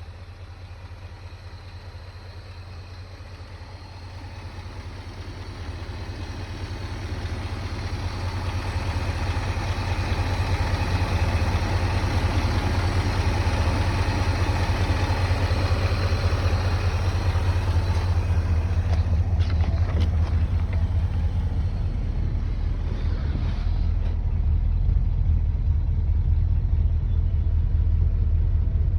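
1958 Edsel Pacer's E-400 361 V8 engine running steadily with a low rumble, growing louder over the first ten seconds and then holding level. A few sharp clicks sound about two-thirds of the way through.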